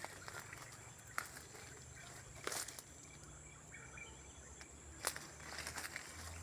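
Faint outdoor nature ambience: a steady high insect trill under a low hum, with a few sharp clicks and faint short chirps.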